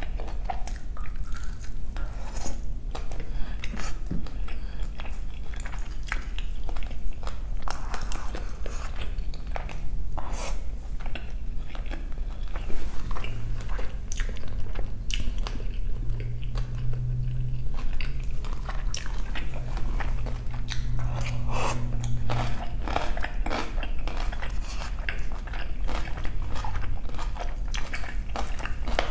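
Close-miked chewing and crunching of napa cabbage kimchi, a steady run of crisp bites and wet mouth sounds with many short clicks.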